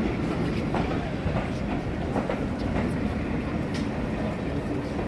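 A train with the Flying Scotsman steam locomotive rolling slowly past: a steady rumble with irregular clicks from wheels on the rails.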